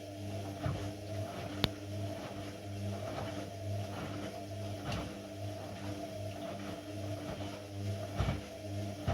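Indesit MTSWA 61053 W EE washing machine running mid-cycle: a steady low machine hum that swells and eases every second or so, with a few light knocks and a sharp click about a second and a half in.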